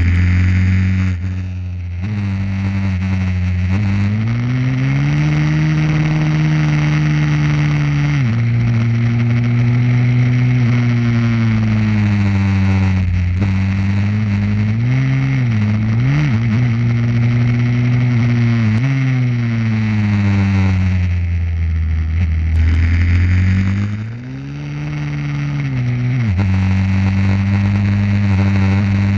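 Pit bike engine running hard on track, its pitch rising and falling over several seconds as the throttle opens and closes, with a quick wobble of revs about halfway through.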